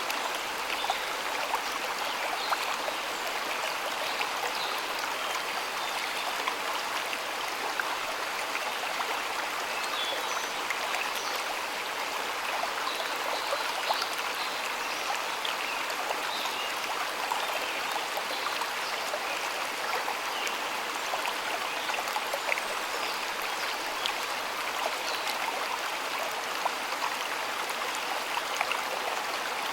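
Shallow stream flowing steadily, a continuous rush of water with many small splashes and droplet ticks over it.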